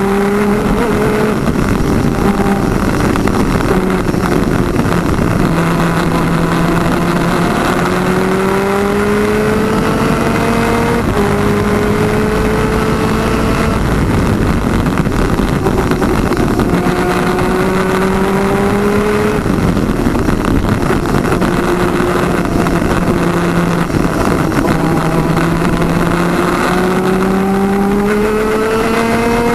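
PVP twin 250cc two-stroke superkart engine at racing speed: its pitch climbs through each gear and steps down suddenly at each shift, several times. A constant rushing noise runs underneath.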